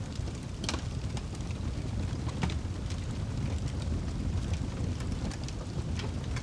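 Wood fire burning in a fireplace: a steady low rumble of the flames with scattered crackles and pops, the sharpest about a second in, near the middle and near the end.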